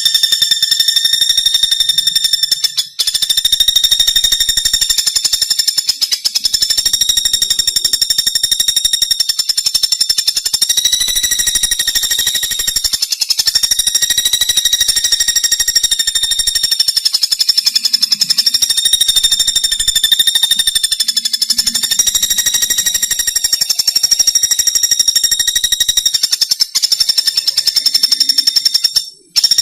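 Pelatuk bawang woodpecker giving a loud, long rapid trill of very fast evenly repeated notes on one steady pitch, broken by short pauses about three seconds in and near the end.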